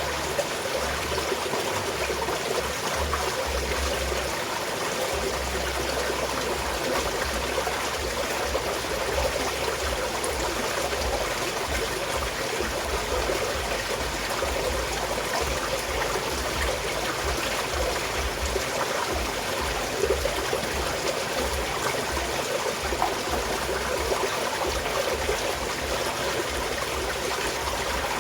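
Small mountain stream flowing steadily. A low rumble comes and goes underneath.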